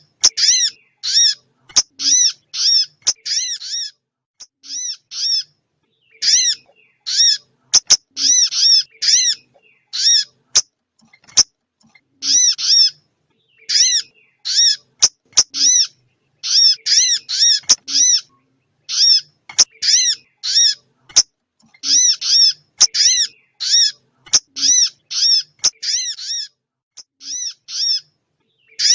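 Recorded small-bird call played as a trapping lure: short, high chirps repeated in quick runs of two to five with brief gaps, and a few sharp clicks among them.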